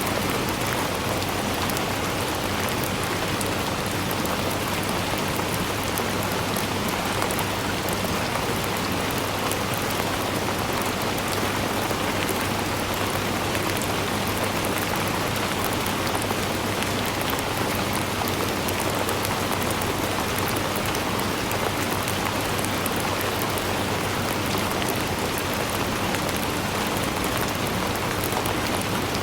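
Steady rain falling, a dense even hiss with many fine droplet ticks and no breaks.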